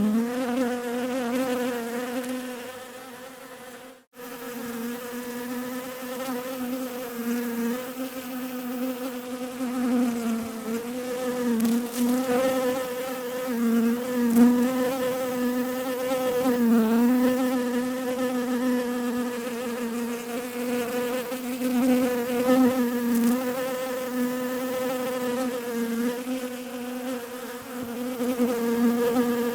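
Bees buzzing in a steady drone with a slightly wavering pitch. The drone fades about two seconds in, cuts out abruptly around four seconds in, then returns.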